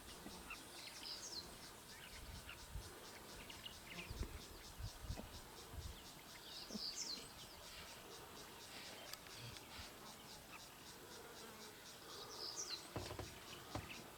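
Insects stridulating in a fast, even pulsing chorus. A short high chirping call comes three times, and there are a few soft low bumps.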